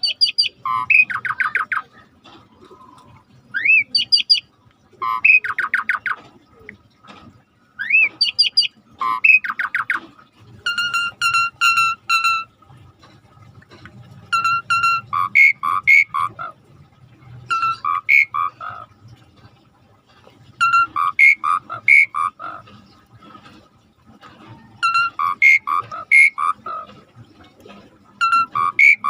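A starling singing: bursts of loud whistled notes, rising glides and quick runs of short repeated notes, a new phrase every two to three seconds.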